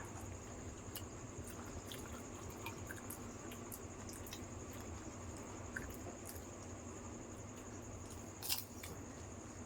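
Faint chewing of doi fuchka, crisp puri shells filled with yogurt, heard as small scattered crackles with one louder crunch about eight and a half seconds in, over a steady high-pitched whine.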